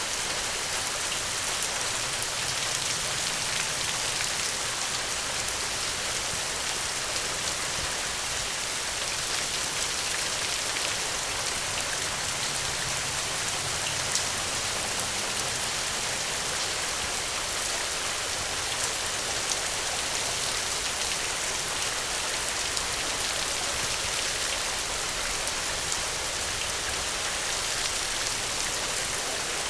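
Gentle, steady rain: a continuous even hiss of falling drops with fine scattered taps, unchanging throughout.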